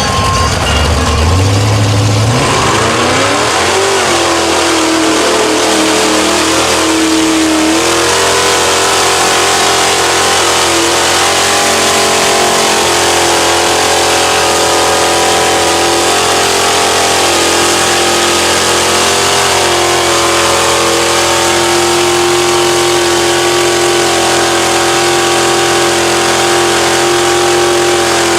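A vehicle engine revving hard: its pitch climbs over the first few seconds, drops and climbs again about seven seconds in, then holds steady at high revs.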